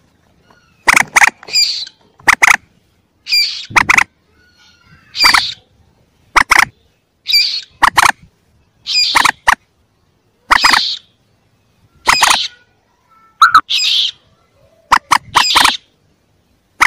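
Common moorhen calls from a lure recording of young moorhens: short, sharp, loud calls repeating about once a second, often in quick pairs, with brief silences between.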